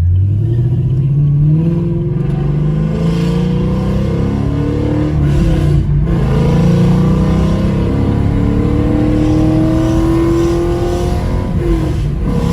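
2017 Camaro SS's 6.2-litre LT1 V8 accelerating hard through an aftermarket valved exhaust with the valves open, sounding close to straight-piped. The engine note climbs steadily, drops at an upshift about halfway through, climbs again, and shifts once more near the end.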